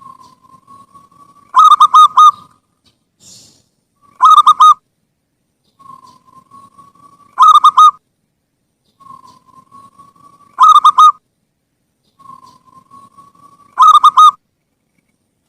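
Zebra dove (perkutut) singing: five phrases, one about every three seconds, each a soft rising coo that ends in a loud burst of three or four quick ringing notes.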